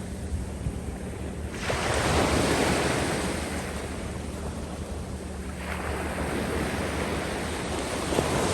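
Small waves washing up the sand and draining back: each swells in with a sudden rush, about every three to four seconds, three times, then fades to a hiss as the water runs off the sand. Wind rumbles low and steady on the microphone.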